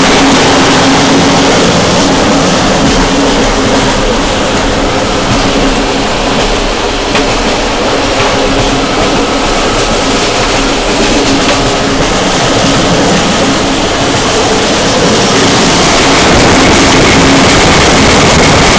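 Train running along the track, heard from on board, with a loud steady rush of air over the microphone. It eases slightly in the middle and grows louder again near the end.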